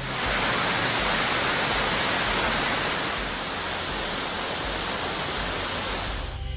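Waterfall: a steady, even rush of falling water that cuts off suddenly near the end as guitar music comes in.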